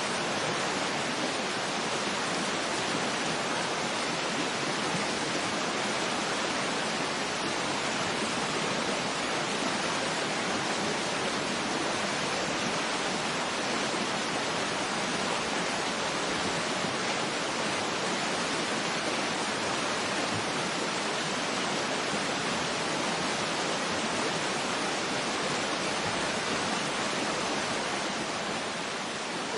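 Waterfall rushing: a steady, unbroken roar of falling water with no changes.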